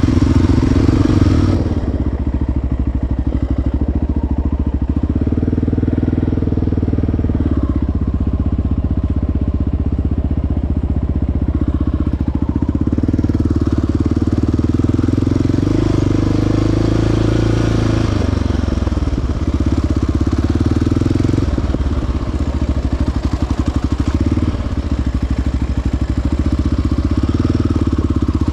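Single-cylinder sport ATV engine running under varying throttle on a trail ride; the engine note shifts about two-thirds of the way through as the rider changes speed.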